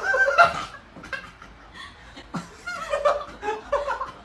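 A person laughing in a series of short bursts.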